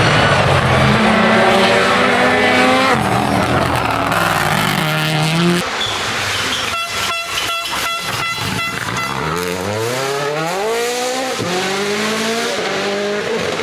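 Rally car engine at full throttle, revs climbing and then dropping with quick gear changes. About halfway through the car comes off the throttle for a couple of seconds and there is a rapid, even run of anti-lag pops and crackles. Then it accelerates hard again through the gears.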